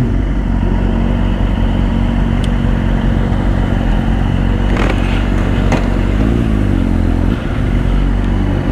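Sport bike engine running steadily at low revs, with a brief rise and fall in pitch about six seconds in and a couple of sharp clicks around five seconds in.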